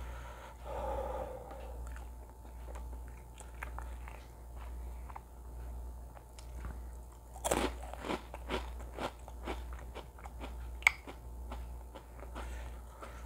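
A person biting into and chewing a crisp piece of food, close to the microphone. A loud crunching bite comes about seven and a half seconds in, then a run of crunches about twice a second that fade out, with one sharp click near eleven seconds.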